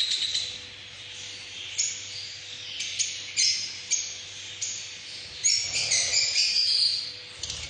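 Parrots giving a string of short, high-pitched calls with brief pauses between them, thickening into a quick flurry of calls a little past the middle.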